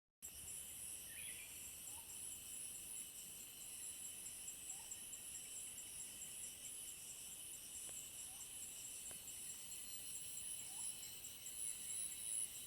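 Steady, high-pitched chorus of insects, such as crickets, trilling without a break. A short, faint rising chirp from another animal repeats every two to three seconds.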